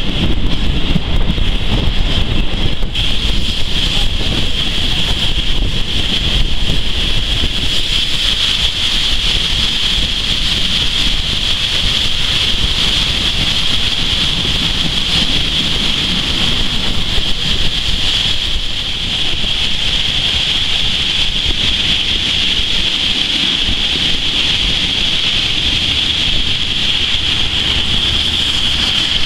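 Historic train running through a tunnel: a steady rumble of wheels on the rails, with wind buffeting the microphone held out of the window and a steady high-pitched hiss over it all.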